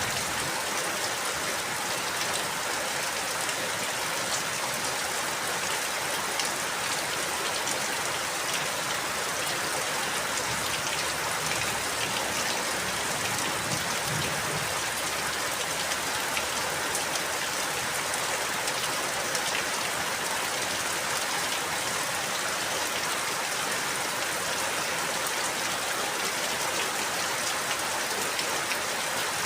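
Steady rain falling and pattering on a surface, with many fine drop ticks in an even hiss.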